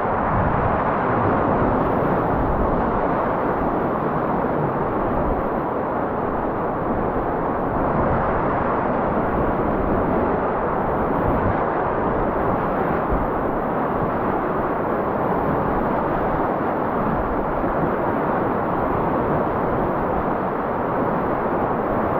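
Steady rushing of river water around a raft on the Rogue River, with no breaks and little high-pitched hiss.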